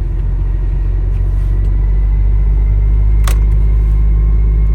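Truck's diesel engine running steadily on the move, a low drone heard from inside the cab that grows slightly louder about two seconds in. A single short click sounds about three seconds in.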